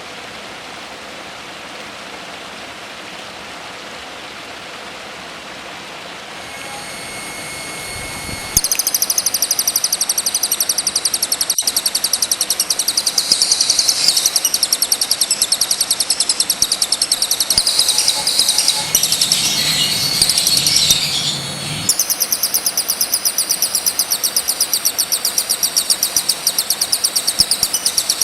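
Steady rushing-water noise, then about eight seconds in a songbird starts a loud, rapid, high-pitched chirping trill that goes on over it, changing its pattern once later on.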